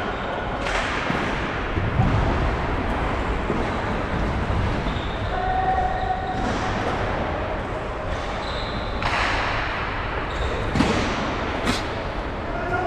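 Steady wind rumble on a helmet or bike-mounted action camera's microphone as a track bike rolls around an indoor velodrome, with scattered knocks and a few short faint calls echoing in the hall.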